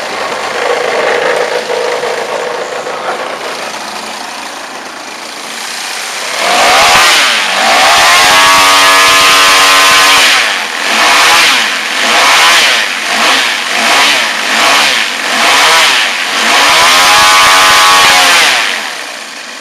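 Comp Extra 260 model aircraft engine and propeller running at low throttle, then run up to full power about six seconds in and held for a few seconds. It is blipped up and down about five times, held at full throttle again, and dropped back to idle near the end.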